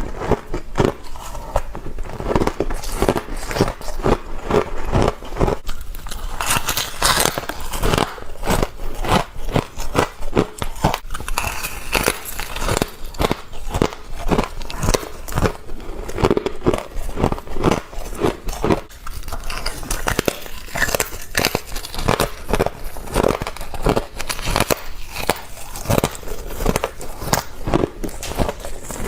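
A person biting and chewing frost ice, a continuous run of crisp crunches in quick succession.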